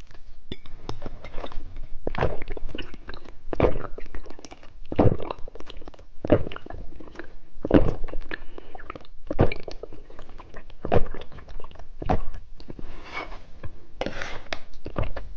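Close-up crunching and chewing of a crunchy candy, with a sharp crunch about every second and a half.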